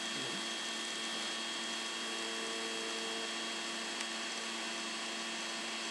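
Steady electrical hum with hiss: a constant background drone holding several fixed tones, with no other events.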